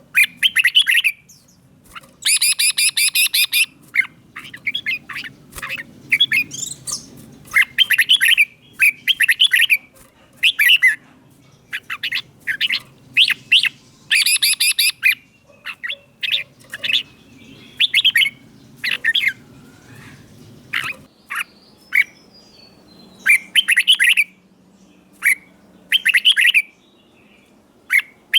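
Red-whiskered bulbul singing: short, clear whistled phrases, one every second or so, with a few fuller and harsher phrases among them.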